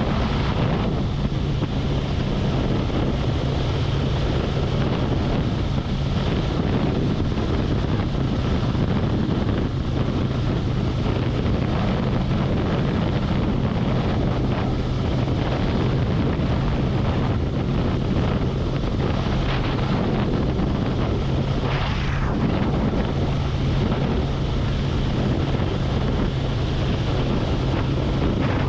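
Harley-Davidson Road Glide's V-twin engine running steadily at highway cruising speed, with wind buffeting the helmet- or bike-mounted camera microphone.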